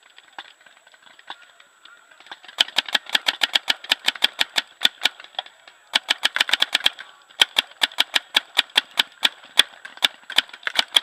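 Paintball markers firing fast strings of shots, several cracks a second, starting about two seconds in, with short breaks around five and seven seconds.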